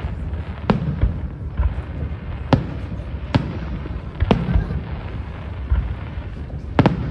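Aerial fireworks shells bursting: about six sharp bangs at uneven intervals, two in quick succession near the end, over a steady low rumble.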